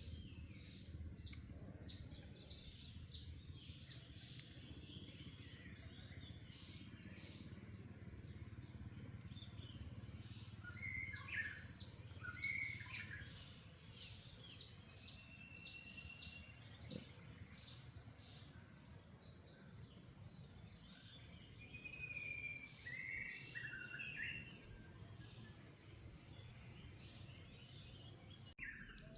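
Birds calling: runs of short, high chirps repeated about twice a second, with a few lower whistled calls, over a steady low background rumble.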